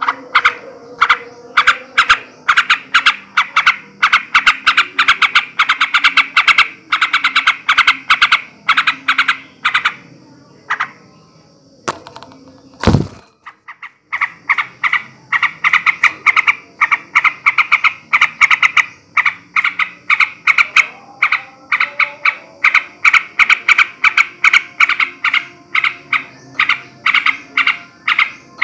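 Male yellow-vented bulbul singing its fast chattering song: long runs of short, bubbly notes at a few per second. A brief lull comes about halfway through, followed by one sharp thump before the song resumes.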